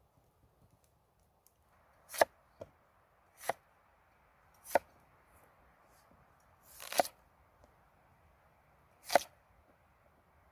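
Knife chopping vegetables on a cutting board: five separate sharp chops, one to two seconds apart, over a low steady hiss.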